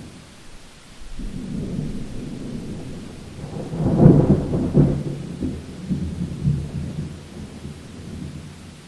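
Thunder rolling over steady rain: a low rumble builds about a second in, peaks with a few sharper cracks around the middle, then rumbles away, while the rain hisses throughout.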